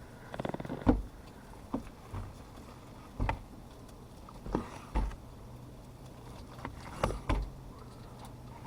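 A sharp knife cutting into a cooked cattleman's cutlet (bone-in rib steak) on a board, with a string of separate knocks and taps as the blade meets the board and bone, about seven over several seconds. A low steady hum runs underneath.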